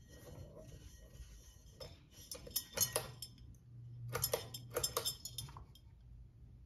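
Ceiling fan pull chain being worked, with light clinks and clicks in two short runs, the beaded chain tapping against the glass light bowl; a low steady motor hum comes up about four seconds in.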